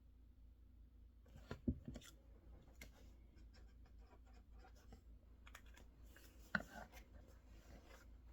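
Faint desk-work sounds: scattered light clicks and scratching, with two sharper knocks, one under two seconds in and one about six and a half seconds in.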